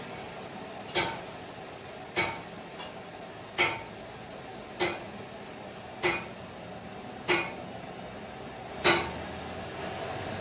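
Workshop machinery: a steady high-pitched squeal with a knock repeating about every second and a quarter, fading and then stopping about nine seconds in.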